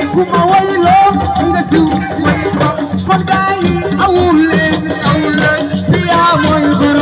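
Loud live assiko band music: dense shaken-rattle and drum percussion in a fast steady rhythm, with a bending melodic line over it.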